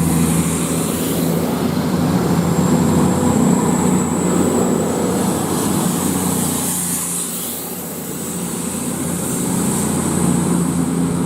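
Two coupled Class 220 Voyager diesel-electric multiple units pulling away under power, their underfloor diesel engines running with a steady low note that fades and swells again near the end. Wheel and rail noise runs underneath, and a thin high steady whine comes in about two seconds in.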